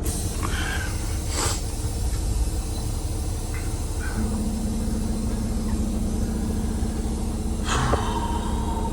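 Cummins X15 diesel in a Peterbilt 389 running, heard from inside the cab as a steady low rumble. A steady hum joins about four seconds in, and there are a couple of short knocks.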